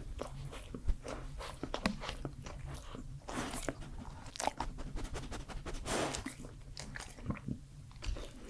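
Close-up ASMR mouth sounds: a run of wet clicks and smacks, with a couple of short breathy swishes.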